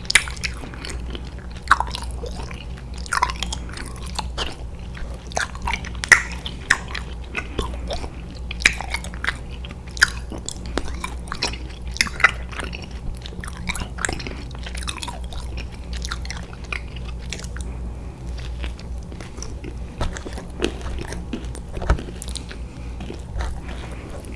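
Close-miked chewing of chewy candy: wet, sticky mouth smacks and clicks at an irregular pace, over a steady low hum.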